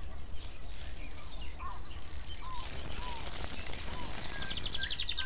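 Wild birds singing in a woodland ambience: a fast, high trill of repeated chirps about half a second in, a few soft, short whistled notes in the middle, and another high chirping trill near the end, all over a steady low rumble.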